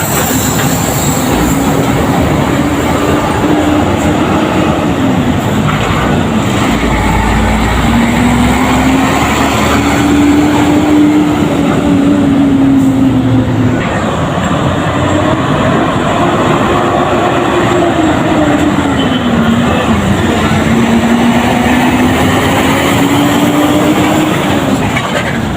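Heavy truck engine under way with loud road and drivetrain noise. Its pitch climbs slowly and falls back sharply about four times, like a driver working up through the gears.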